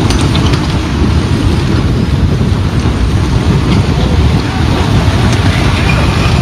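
Open-cut coal mine blast rumbling loudly and continuously, with no single sharp bang.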